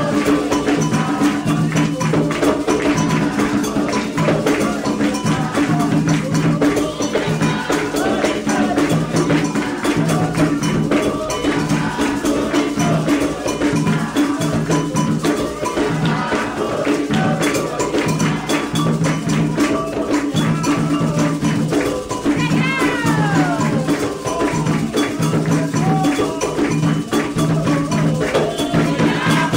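Candomblé ritual percussion: atabaque hand drums keeping a steady repeating rhythm, with an agogô bell and rattles over it.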